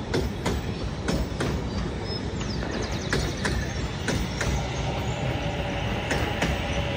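Commuter train passing close by: a steady rumble of the cars, with sharp clicks of the wheels crossing rail joints that often come in pairs.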